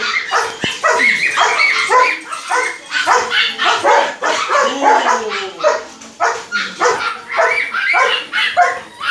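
A protection-trained guard dog barking over and over, two or three barks a second.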